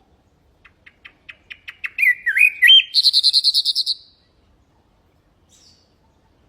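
Common nightingale singing one song phrase. It starts with a run of short repeated notes that grow louder and quicker, turns into a few whistled notes, and ends in a fast loud trill about four seconds in.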